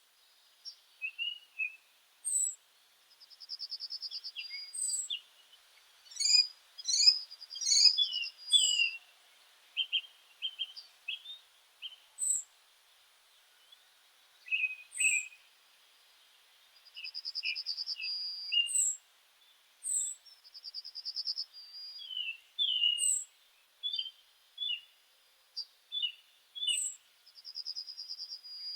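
Several birds singing and calling together, a meadow chorus. High thin falling notes repeat every couple of seconds, a buzzy trill about a second long comes back several times, and shorter chirps fill the gaps.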